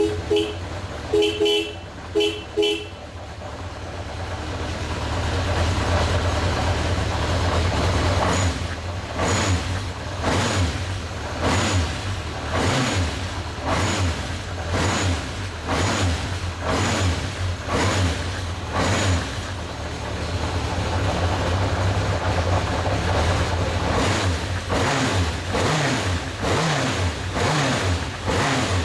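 1979 Honda CB750F's air-cooled inline-four engine running after a cold start, its sound swelling in regular pulses about once a second, then rising and falling more quickly near the end as it is revved. Four short horn-like beeps sound in the first three seconds.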